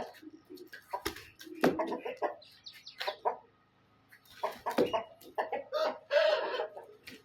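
Aseel chickens clucking in short, irregular bursts, with a longer, louder call about six seconds in.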